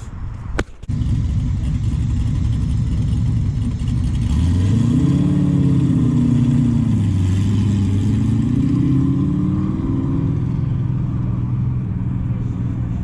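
Car engine running with a low rumble. About four seconds in it revs up, eases back down, then climbs again around eight seconds.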